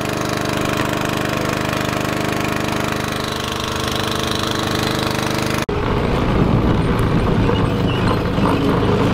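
Small gasoline engine of a track-watering pump running steadily at a constant speed. About two-thirds of the way through it cuts off abruptly to a rougher, lower engine sound.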